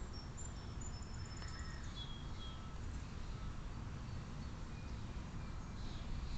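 Small birds chirping in the background with short, thin, high notes and a quick trill about a second in, over a steady low rumble.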